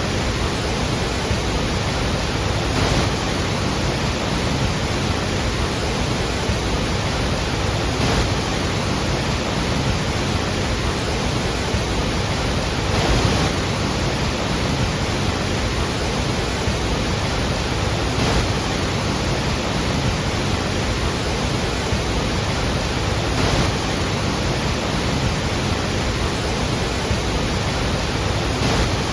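Iguazu Falls: a steady, dense rush of falling water, with a slight swell about every five seconds.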